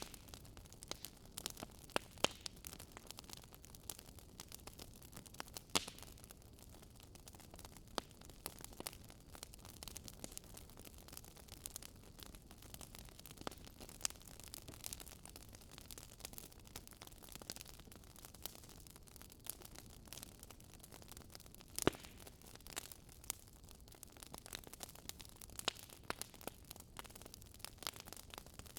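Campfire crackling: irregular small snaps and pops over a faint steady hiss, with a few sharper, louder pops scattered through.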